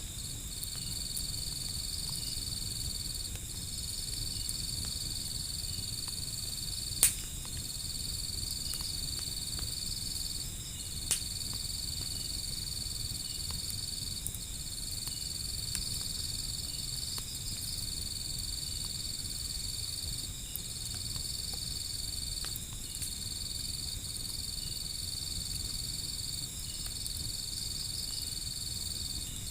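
Insects chirring steadily, a high trill broken every second and a half or so, over a low rumble. Two sharp pops from a crackling wood fire, about seven and eleven seconds in.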